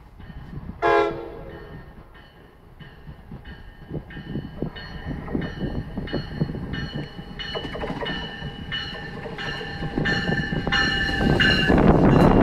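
NJ Transit train giving one short horn toot. Then its bell rings about two and a half times a second, growing louder as the train approaches. Near the end the bell is covered by the loud rumble of the train arriving.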